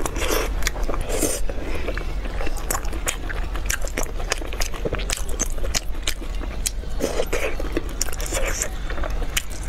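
A person biting and chewing braised pork in sauce, heard close up, with many quick, irregular mouth clicks.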